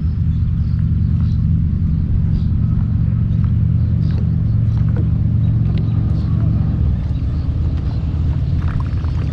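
Steady low rumble of wind buffeting the microphone, easing slightly near the end, with faint scattered ticks above it.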